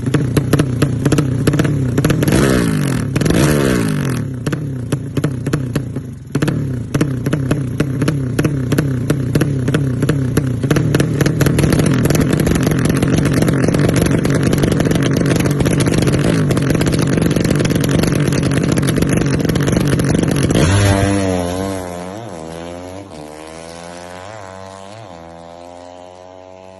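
Yamaha Vega motorcycle with a 200 cc drag-racing engine running loud with a crackling exhaust, briefly revved a few seconds in. About 21 s in it pulls away, its pitch climbing repeatedly through the gears as it fades into the distance.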